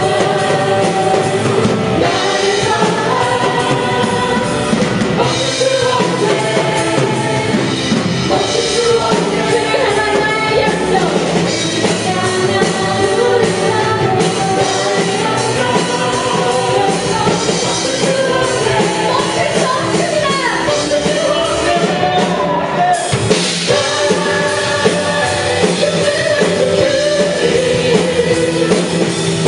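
A Christian praise band playing a worship song live, with singing over full band accompaniment.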